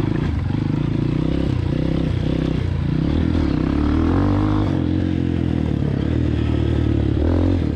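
Honda CRF230F dirt bike's single-cylinder four-stroke engine running as it is ridden, revs rising and falling, climbing higher about halfway through and then dropping back.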